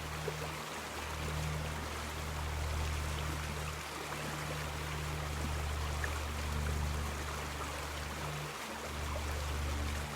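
River water flowing steadily, with a low droning hum underneath that drops out briefly a few times.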